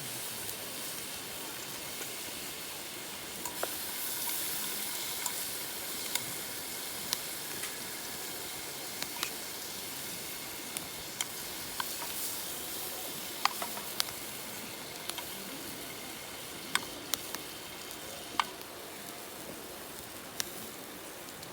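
Cooking over a wood campfire: a steady sizzling hiss, with a dozen or more sharp pops and crackles scattered through it.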